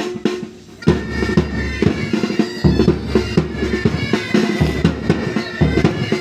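Military pipe band playing: bagpipes over snare drums and bass drum. Drum strokes open, and the full band of pipes and bass drum comes in about a second in.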